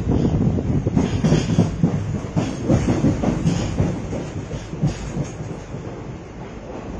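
Konkan Railway passenger train running on the track: a low rumble with irregular clattering knocks from the wheels, easing a little after about four seconds.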